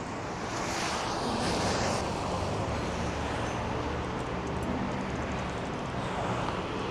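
City street traffic: a steady low rumble of passing vehicles, with one vehicle hissing past from about half a second to two seconds in.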